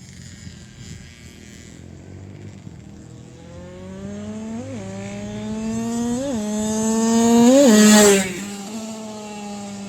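Motorcycle accelerating hard through the gears, its engine pitch climbing and snapping down at three upshifts, getting louder as it approaches and passing close about eight seconds in, after which the pitch drops as it moves away.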